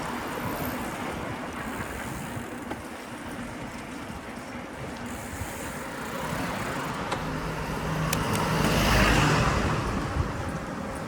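Road traffic on a city street heard from a moving bicycle, with a car passing close by, loudest about nine seconds in.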